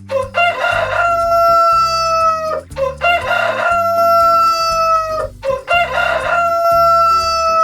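Rooster crowing three times, cock-a-doodle-doo. Each crow is a long held call that drops in pitch at the very end.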